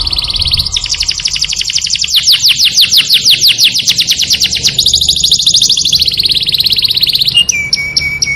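Canary singing in long runs of fast repeated high notes, each run a different note pattern, switching every second or two, with a steady held whistle near the end.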